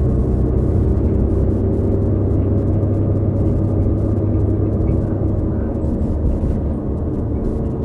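Drivetrain of a 2018 New Flyer XD40 diesel bus running under way, with its Cummins L9 engine and Allison B3400xFE transmission giving a steady low drone. It carries the odd transmission bearing noise found on several buses of this 18000 series. The drone eases slightly near the end.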